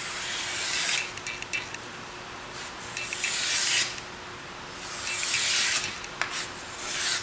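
Freshly sharpened hewing axe edge scraping in four rasping strokes, one every second and a half or so, each a hiss that ends in a few light clicks.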